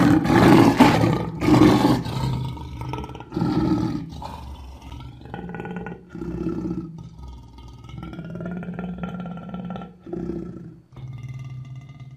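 Lion roaring: a loud roar in the first two seconds, then a run of shorter calls that grow fainter and further apart.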